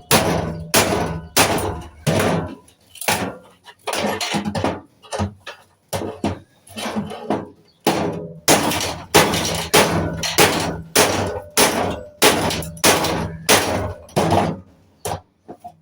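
Hammer striking metal again and again, about two blows a second with a few short pauses, each blow ringing briefly: scrap metal being knocked apart.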